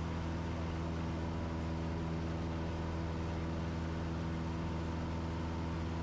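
Cessna 172's four-cylinder piston engine and propeller droning steadily in cruise-climb, heard from inside the cabin as an even, low hum with no change in pitch.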